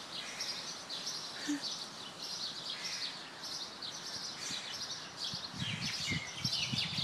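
Many small birds chirping continuously in quick high calls, with a few soft low thumps about five to six seconds in.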